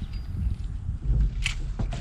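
Wind buffeting the camera microphone as a low, gusting rumble, with a couple of sharp knocks in the rowboat about one and a half seconds in.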